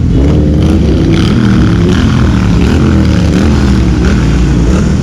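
Steady low rumble of a running vehicle engine, with a wavering pitched tone above it.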